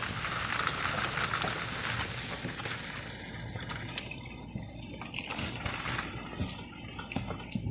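Rain falling in a dense, steady hiss that thins about three seconds in to scattered drops and crackling taps.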